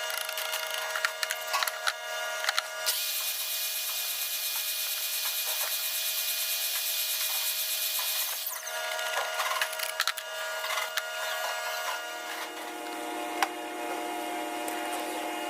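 Woodworking shop machinery running with a steady hum and scattered knocks on wood. About three seconds in, a loud hiss joins for some five seconds and then stops suddenly.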